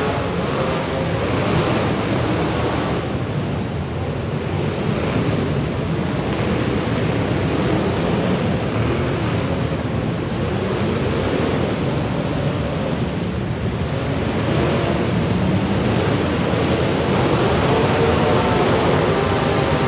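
Dense, loud roar of several demolition derby cars' engines running at once. An engine can be heard revving up and down near the start and again near the end.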